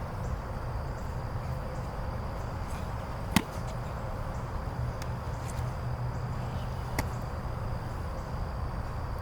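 Two sharp slaps about three and a half seconds apart, the first much louder: a football smacking into hands during a quarterback throwing drill. Under them runs a steady high insect buzz and a low outdoor rumble.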